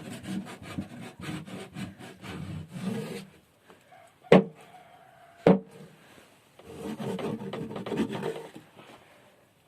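A stick scraping and rubbing inside a cat house in quick rough strokes, with two sharp knocks about a second apart in the middle, then more scraping: an attempt to clean the house that isn't working.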